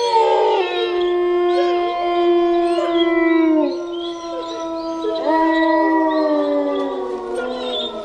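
Several dogs howling together: long overlapping howls, each held for a few seconds and dropping in pitch as it ends, with shorter wavering howls over them.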